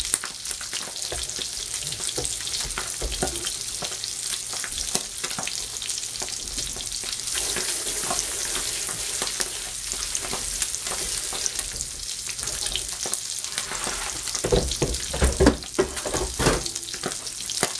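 Sea bass fillets frying skin-side down in butter in a frying pan: a steady sizzle with fine crackling. A few knocks come about three-quarters of the way through.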